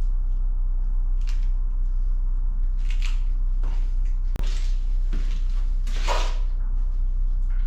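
Hand tools and metal parts clinking and scraping now and then, a sharp knock about four seconds in and a longer scrape about six seconds in, over a steady low hum.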